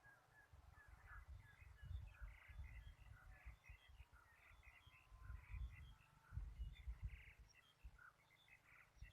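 Faint bird chirps: many short calls scattered throughout, over a low rumble of wind on the microphone.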